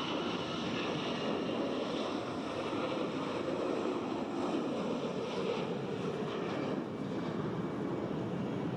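Jet aircraft engines running: a steady rushing noise with a faint high whine over the first few seconds.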